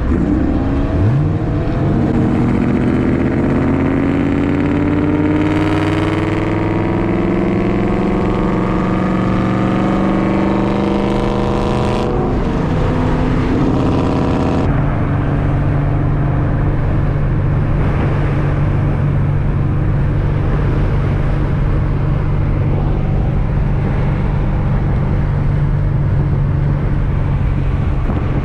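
Supercharged, cammed C6 Corvette LS2 V8 under hard acceleration, its pitch climbing steadily for about ten seconds. The pitch drops at a gear change about twelve seconds in and climbs briefly again. After another shift it settles into a steady drone while cruising.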